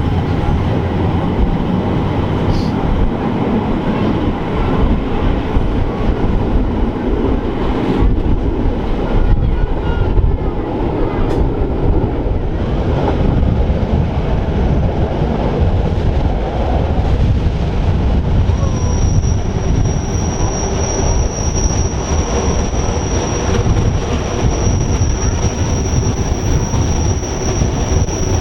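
Rhaetian Railway metre-gauge train running on the Arosa line with a steady rumbling rail noise. About two-thirds of the way through, a steady high-pitched wheel squeal sets in and holds.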